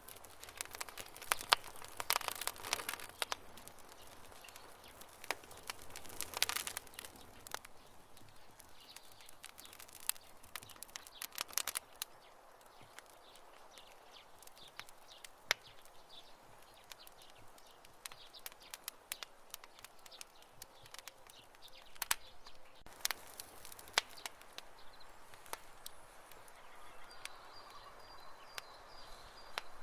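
Wood campfire crackling: irregular sharp pops and snaps, bunched in several busy spells, over a soft steady hiss. A faint high steady tone comes in near the end.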